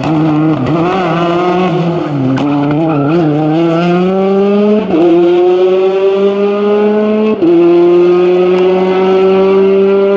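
Rally car engine at high revs, its pitch wavering up and down as the throttle is worked. It then accelerates hard, with two quick upshifts about halfway and about three-quarters of the way through, the revs climbing after each.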